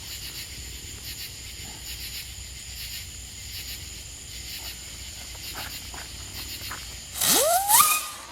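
Crickets chirping in steady pulses; about seven seconds in, a small firework goes off with a loud hiss and a whistle that rises in pitch for about a second.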